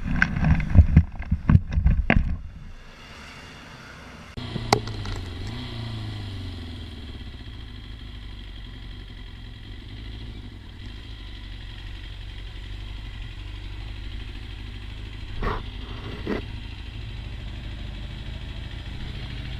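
A motorcycle engine running steadily at a low hum, with a few sharp clicks. It is preceded by a burst of loud knocks and clatter in the first two seconds.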